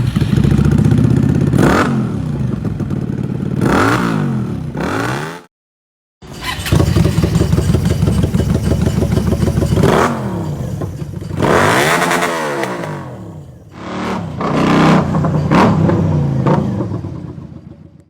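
Keeway Benda V252C 250 cc V-twin running through a custom free-flow exhaust, idling between repeated throttle blips that send the revs up and back down. The sound cuts out briefly about five and a half seconds in and fades away at the end.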